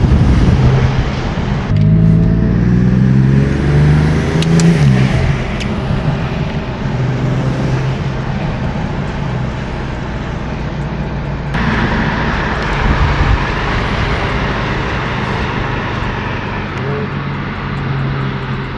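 Car engine pulling under acceleration, its pitch climbing for a few seconds, then dropping away at a gear change or lift, followed by steady cruising with engine and road noise.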